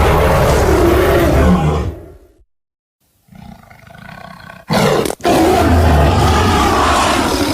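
Lion roar sound effects, custom creature sounds built from lion recordings: a long, loud roar fades out about two seconds in, followed by a short silence and a quieter, lower growl. About five seconds in comes a short, sharp loud burst, then a second long, loud roar that trails off near the end.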